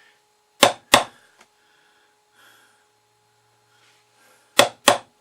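Sharp double taps on a Phillips screwdriver pressed into cardboard, punching recessed bolt-head marks: two quick knocks, then another pair about four seconds later.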